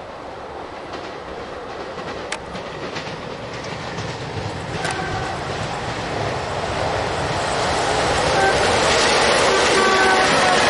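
Diesel passenger train approaching along the line, its engine and wheel-on-rail noise growing steadily louder, with clickety-clack from the wheels. Short stacked tones near the end sound like brief horn toots.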